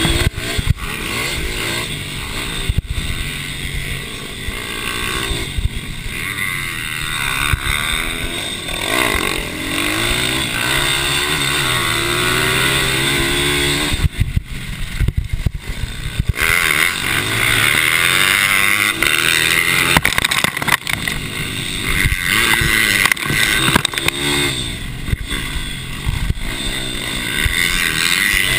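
Mini racing motorcycle engines revving hard, their pitch climbing and dropping over and over as the bikes accelerate, shift and brake around the track. A short drop-off comes about halfway through.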